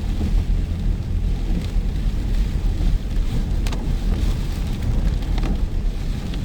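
Heavy rain in a windy storm, with a steady low rumble under the hiss of the rain and a few sharp drop hits about four and five and a half seconds in.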